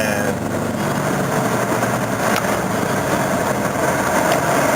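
Car driving along: steady engine and road noise.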